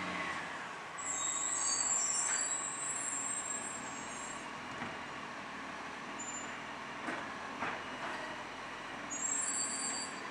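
Iveco ACCO side-loader recycling truck running, with high-pitched squeals about a second in and again near the end, and a couple of short knocks around the middle.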